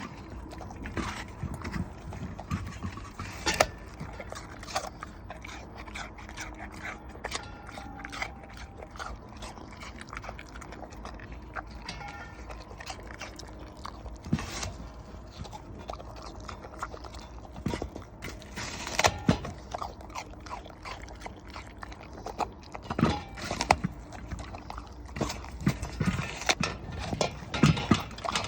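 A dog chewing an apple: irregular crisp crunches and bites, coming in louder clusters now and then.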